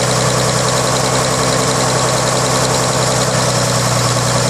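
Freshly rebuilt 1933 Chevrolet inline-six engine running steadily at idle on its first run in decades.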